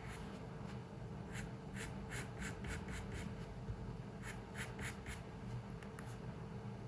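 Short, quick strokes of a drawing tool scratching on paper: a run of about six, a pause, then four more. A steady low hum lies underneath.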